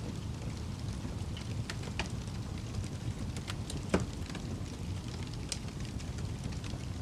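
Wood fire burning in a fireplace: a steady low rumble with scattered crackles and pops, one louder pop about four seconds in.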